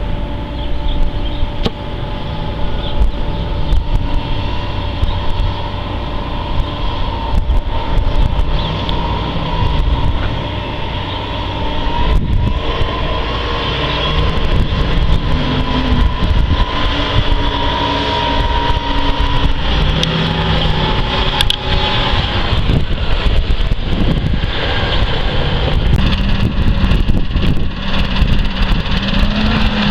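Case IH 280 Magnum tractor's diesel engine running, its pitch rising and falling several times as the revs change.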